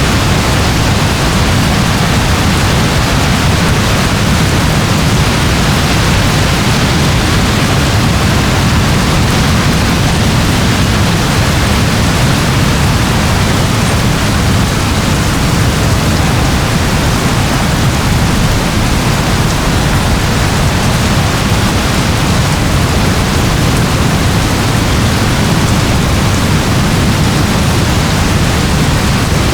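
Steady rain, an even hiss with a strong low rumble beneath it.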